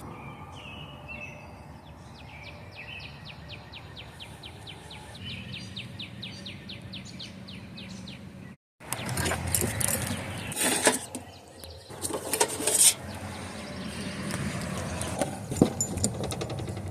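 Outdoor ambience with a bird giving a long run of rapid, evenly repeated high chirps, about five a second. After a sudden cut about halfway in, louder rustling and sharp knocks and clicks take over.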